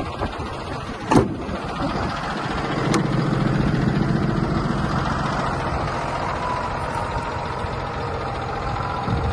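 Cummins ISB 6.7 L diesel in a Freightliner M2 box truck idling steadily. There is a sharp knock about a second in and a short click about three seconds in.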